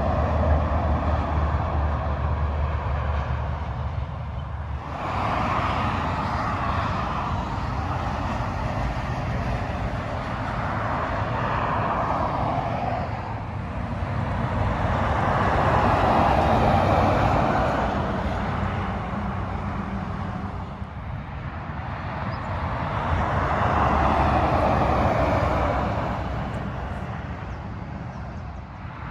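Freeway traffic passing one vehicle after another, each swelling and fading with tyre noise; a heavy truck's low engine drone is heard for the first few seconds.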